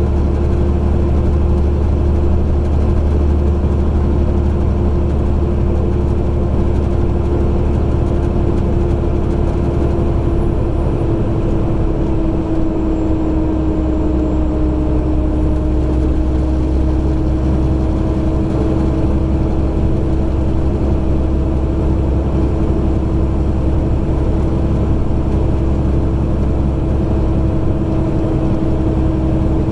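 Semi truck's diesel engine droning steadily under way, heard from inside the cab with road noise. Its pitch dips slightly about twelve seconds in, then holds.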